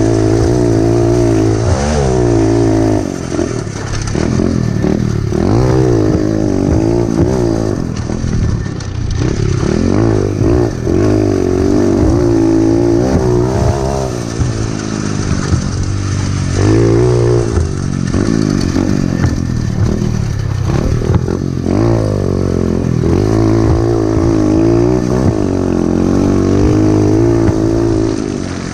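Pit bike engine being ridden hard, revving up and dropping back over and over as the rider opens and closes the throttle and shifts.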